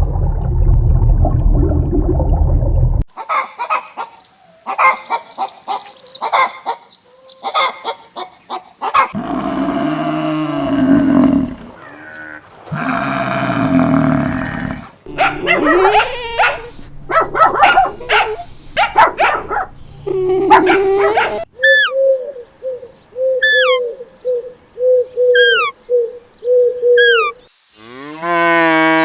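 A run of different animal calls one after another, dogs barking and yipping among them. The calls come in separate short bouts, with a rising call near the end.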